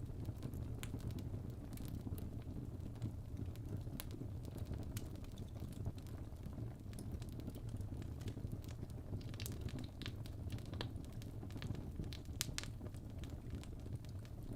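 Fireplace fire crackling: scattered sharp pops and snaps over a steady low rumble of the flames.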